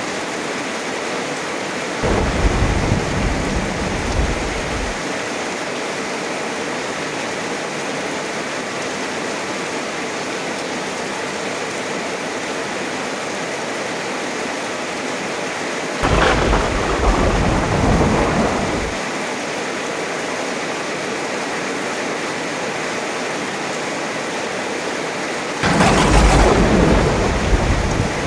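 Heavy rain falling steadily, with three rolls of thunder: one a couple of seconds in, one around the middle and one near the end. Each starts suddenly and rumbles on for about three seconds.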